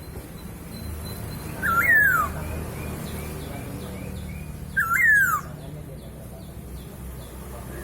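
Masked laughingthrush (poksay hongkong) calling: two loud calls about three seconds apart, each a whistle that jumps up and then slides down, with a harsh, scratchy top.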